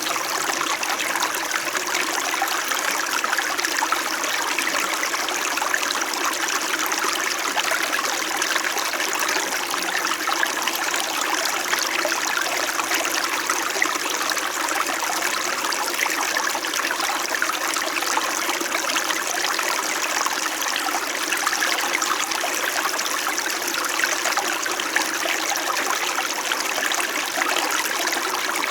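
Small mountain stream flowing and trickling over stones, a steady unbroken babble of water.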